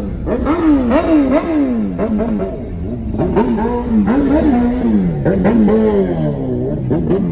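Car engine being revved in repeated quick throttle blips, its pitch rising and falling sharply about twice a second.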